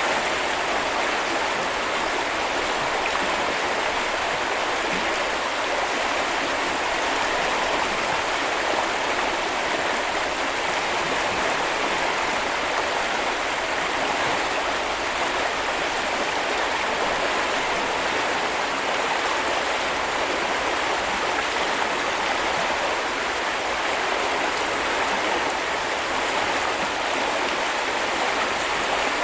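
Small river or brook flowing over stones, a steady, even rush of running water.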